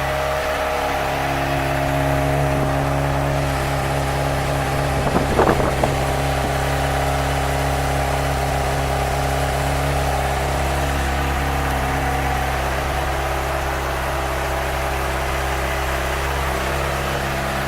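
2013 Honda CBR600RR's inline-four engine idling steadily, with a few short sharp sounds about five seconds in.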